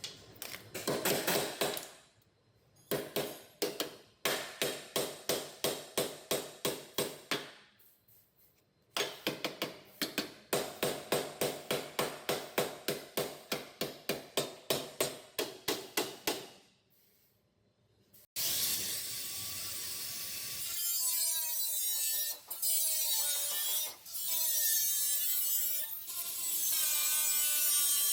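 Hand-tool work on a car body panel: two long runs of quick, even strokes, about three a second, with short pauses. About two-thirds of the way through, a power tool starts and runs steadily, its pitch wavering.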